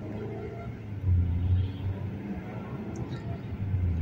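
Chevrolet Malibu's naturally aspirated engine running on LPG through a newly tuned STAG 200 GoFast gas injection system, pulling the car away and accelerating, heard from inside the cabin as a low rumble that swells about a second in and again near the end.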